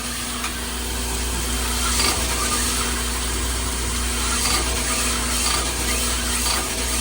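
Sunnen SV-15 cylinder hone running in an engine bore, its abrasive stones rubbing against the cylinder wall as the hone strokes up and down, over a steady machine hum with a few sharp ticks.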